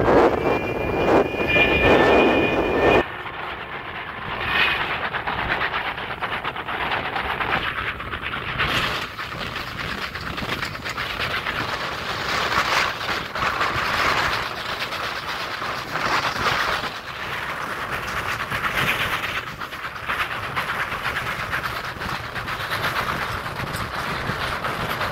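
A moving passenger train heard from the carriage window: a steady rumble of wheels on the rails mixed with rushing air, louder for the first three seconds, then quieter with slow swells.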